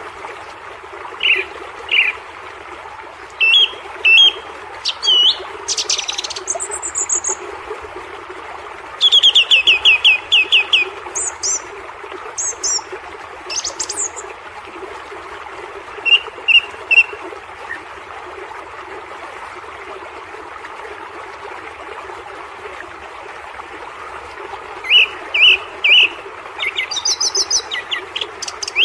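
Small birds chirping and singing in short bursts, including a fast trill about a third of the way in and a cluster of chirps near the end, over the steady rush of waterfall water.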